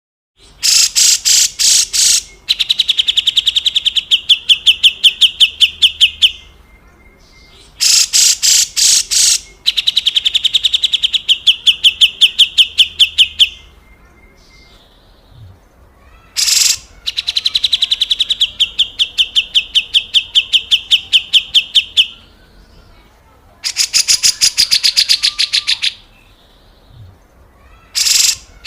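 Cucak jenggot (brown-cheeked bulbul) giving its coarse, rattling 'besetan kasar' call: repeated bursts of rapid, harsh notes, each lasting a few seconds, with short pauses between them.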